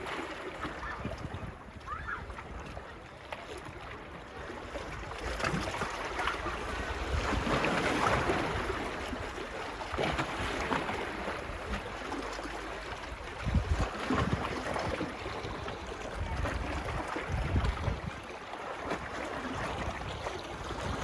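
Small sea waves washing onto a beach, swelling and easing every few seconds, with wind gusting against the phone's microphone.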